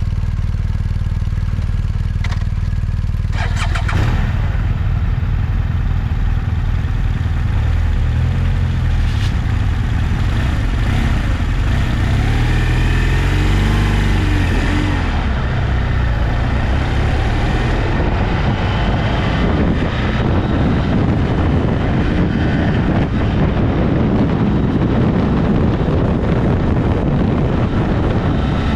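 Adventure motorcycle engine idling steadily, with a sharp knock about four seconds in, then pulling away with the revs rising and falling. From about two-thirds of the way through, a rush of wind and riding noise takes over.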